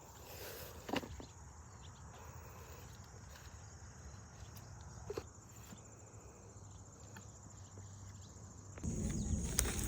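Insects trilling steadily at a high pitch, with a couple of soft knocks. Near the end, louder rustling or handling noise comes in.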